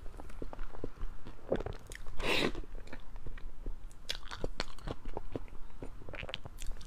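Close-miked chewing of soft chocolate mousse cake with berry jam filling: many short wet mouth clicks and smacks, with one louder, longer rush of noise about two seconds in.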